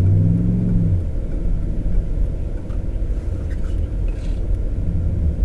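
Car driving, heard from inside the cabin: a steady low rumble of engine and road noise, with the engine's hum standing out briefly in the first second.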